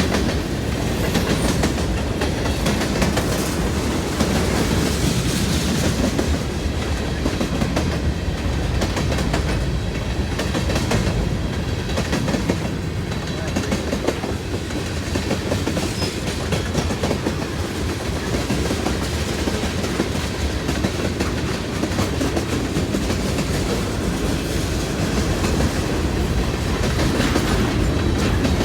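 Norfolk Southern freight train rolling past close by, a steady, continuous rumble of railcars with the wheels clacking over the rail joints.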